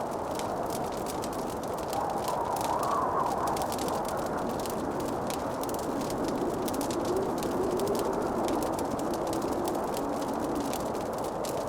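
Log fire crackling in a fireplace: many small snaps and pops over a steady low rushing noise. A faint tone drifts up and down in pitch through the rush.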